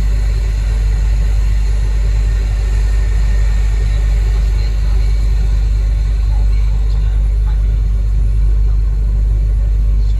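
Large diesel engine running steadily under load, a constant deep rumble with no change in speed.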